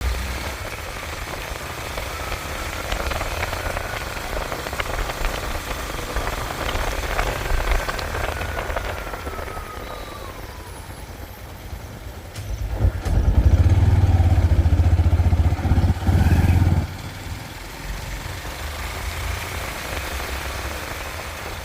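Yamaha FZ-FI V3 motorcycle's single-cylinder engine running on the move, with road and wind noise. The low rumble grows much louder for about four seconds past the middle, then drops back.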